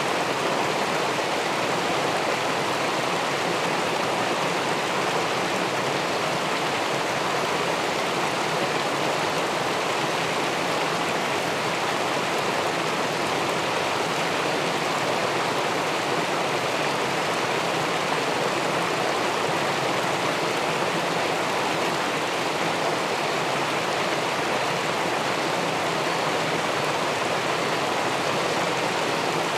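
Steady rush of river water spilling over a weir into the pool below, an even, unbroken noise that does not change.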